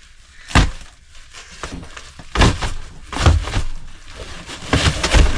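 Several heavy thumps and knocks with rustling in between, as bedding and old things are pulled off wooden bunks and dropped.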